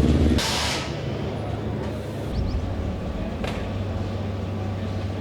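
Background vehicle engine noise, with a short hiss about half a second in and a steady low hum starting past the middle.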